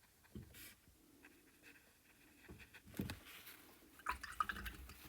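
Faint sounds of a paintbrush being rinsed in a jar of water, with light splashing and a few short clicks of the brush against the jar.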